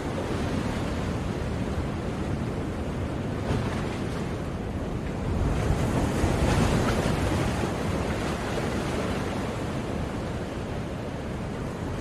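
Sea waves breaking and washing on a shore, a steady rush with one swell that builds and eases about halfway through.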